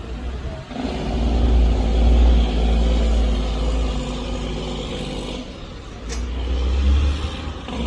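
Loaded dump truck's engine pulling under load. It picks up strongly about a second in, eases off past the halfway point, then builds again near the end. A single sharp click comes a little after six seconds.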